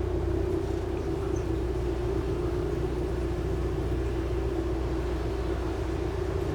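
A tour boat's engine running at a steady speed, a constant low drone with a strong hum.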